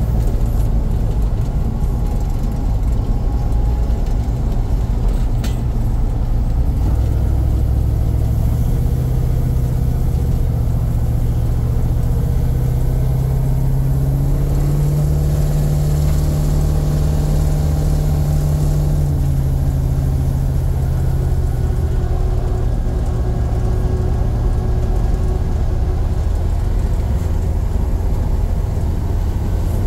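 A 1971 Chevy Nova's swapped-in 5.3-litre LS V8 driving, heard from inside the cabin with road rumble underneath. The engine note climbs from about seven seconds in, holds, then eases back down after about twenty seconds.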